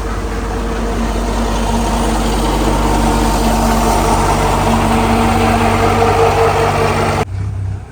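Motor engine running steadily at a constant pitch, loud and close, over a rushing noise; it cuts off abruptly near the end.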